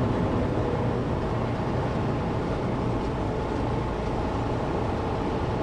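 Steady low rumble of a semi truck's diesel engine, heard from inside the cab as the truck creeps slowly forward.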